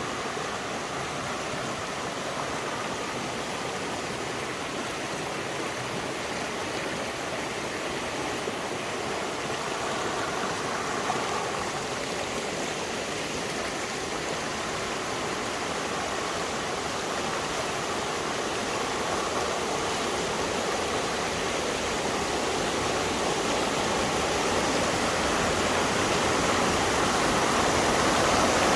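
Steady rushing of falling water from the Zuevsky waterfall, growing gradually louder toward the end.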